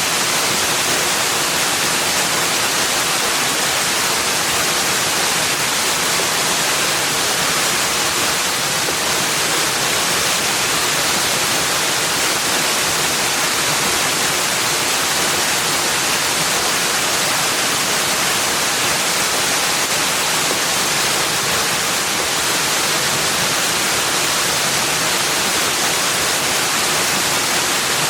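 Steady rushing water, an unbroken even hiss with no separate splashes or changes.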